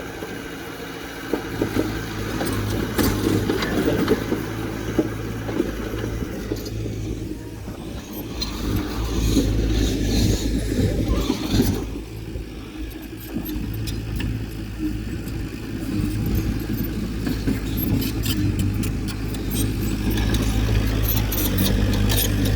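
Heavy earthmoving machine's diesel engine running, its level rising and falling with load, with metallic clanking and rattling over it.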